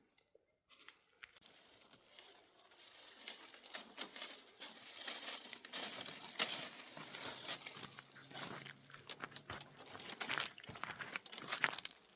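Dense crinkling and crackling, full of sharp little clicks, starting about a second in and growing louder after the first few seconds.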